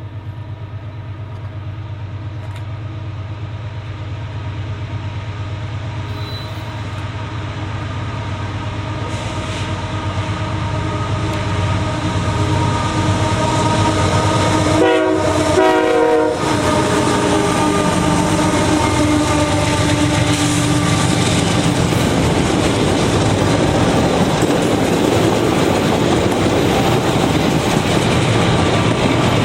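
A train approaching and passing: the locomotive sounds its horn as the train grows steadily louder, the lead unit goes by about halfway through, and the rail cars follow with a steady rumble and clickety-clack of wheels on the rail joints.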